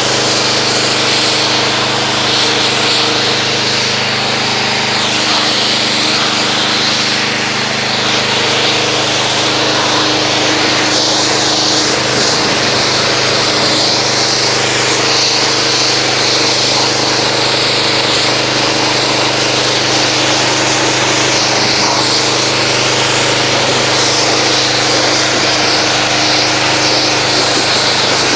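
Pressure washer running steadily with its motor humming, and the hiss of its spray rinsing car-wash foam off a car.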